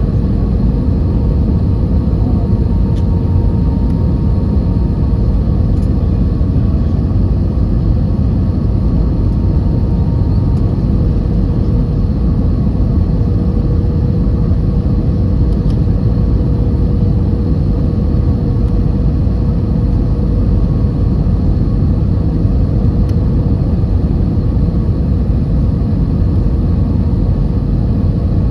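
Steady cabin noise inside an Airbus A320: a deep, even rumble of engines and airflow with a faint steady hum.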